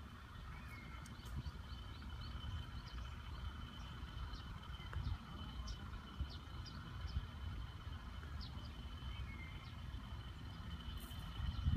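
Outdoor garden ambience: scattered short bird chirps over a low steady rumble, with a thin, steady high-pitched tone. Near the end the rumble grows louder.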